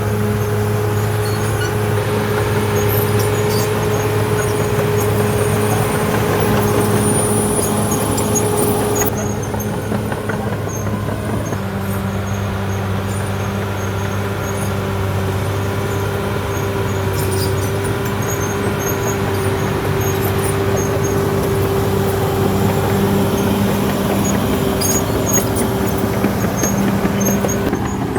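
CAT D6R XL bulldozer's diesel engine running steadily under work. Its note drops slightly about a third of the way in, with faint high clicks over it.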